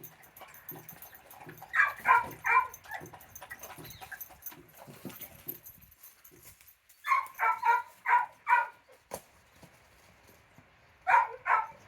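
Dog barking in three quick bursts of three to five barks each, about 2 s in, about 7 s in and near the end.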